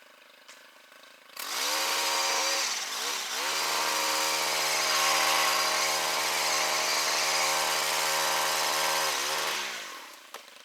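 Two-stroke chainsaw revved up about a second and a half in, dipping briefly, then held at full throttle for about six seconds before dropping back toward idle near the end.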